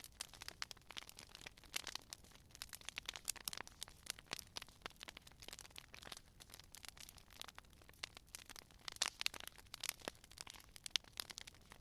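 Wood fire crackling, with a steady stream of irregular sharp pops and snaps over a soft low rumble.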